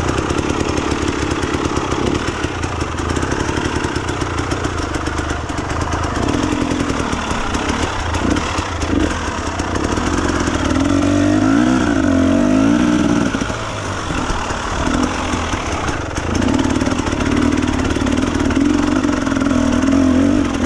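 Enduro dirt bike engine running and revving, its pitch rising and falling as the throttle is worked, most clearly in a wavering stretch about halfway through.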